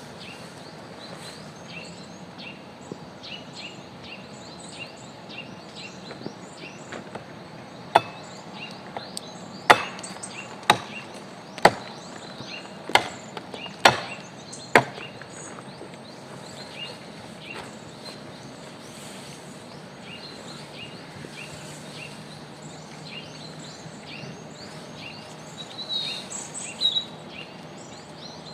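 Wood being chopped: seven sharp chops about a second apart, starting about a quarter of the way in. Short high chirps repeat throughout over a steady outdoor background.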